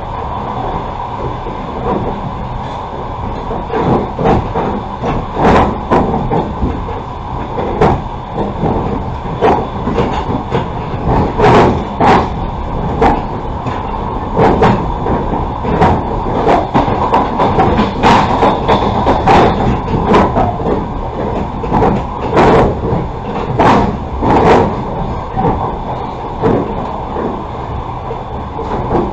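A passenger railway carriage running along the track: a steady rolling rumble, with sharp wheel clacks over rail joints coming at irregular intervals.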